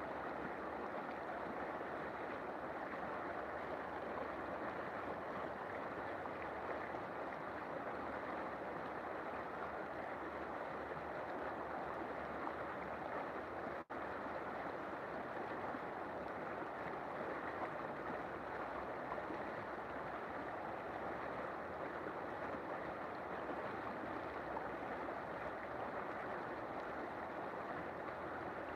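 River water flowing and rushing steadily, with one momentary break in the sound about halfway through.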